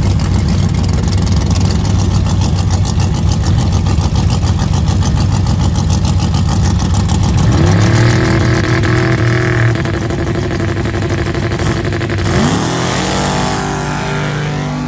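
A loud race engine running with a rapid, rough rumble. Its pitch rises sharply about halfway through, holds, and then climbs again near the end as the engine is revved.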